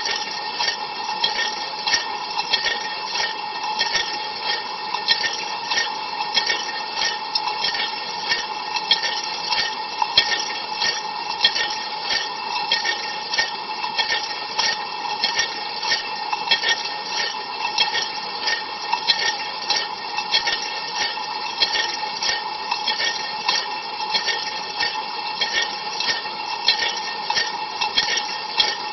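Ariston LV 46 A IX dishwasher's cold rinse heard from inside the tub: water sprayed from the spray arms spatters steadily on the dishes and racks with dense, irregular clicking, over a steady hum.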